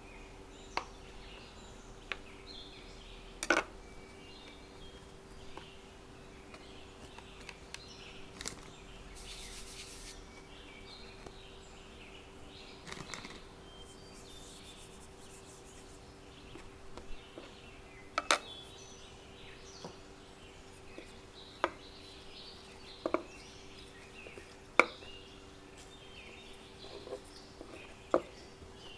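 Sporadic sharp clicks and knocks of kitchen work, about a dozen scattered through, over a steady low hum, with faint bird chirps in the background.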